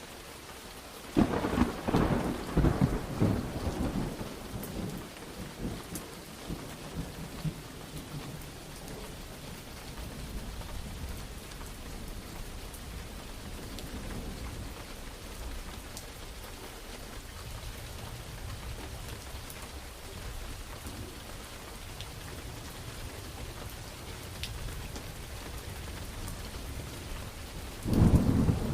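Thunderstorm: steady rain falling, with a sharp thunderclap about a second in that crackles and rumbles away over several seconds, and a second loud clap near the end.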